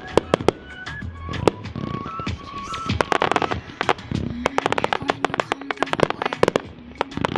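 Consumer fireworks cakes firing rapid bangs one after another, with bursts of dense crackle around the middle. Music with a stepping melody plays underneath.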